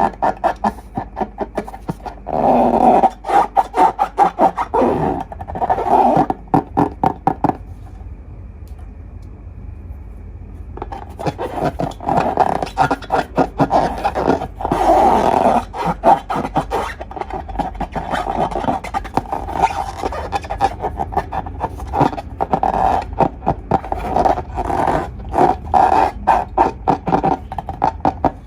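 Hands squeezing and working slime: a fast, irregular run of wet squelches and crackling pops, easing off for a few seconds about a third of the way in.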